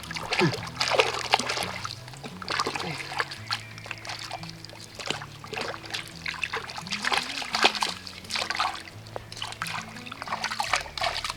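A person washing in shallow, murky water: repeated splashes and trickling as water is scooped and poured.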